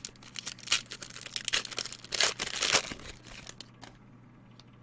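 Crinkling and rustling of a trading card pack wrapper and cards being handled: a run of short papery crackles over the first few seconds, dying away near the end.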